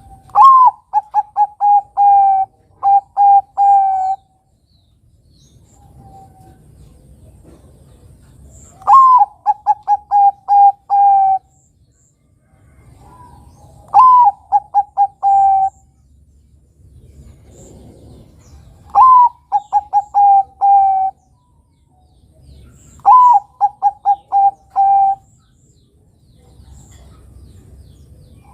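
Bangkok-type perkutut (zebra dove) cooing its song: five bouts of quick, clipped coos about five seconds apart, each opening on a higher note and followed by a run of short, level notes.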